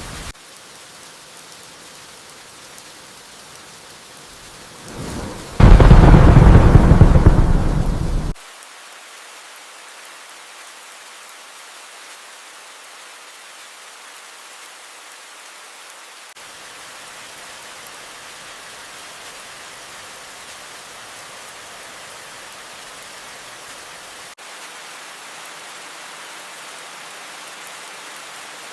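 Steady rain falling, with a loud thunderclap about five and a half seconds in. The clap rumbles deeply for under three seconds and then cuts off abruptly.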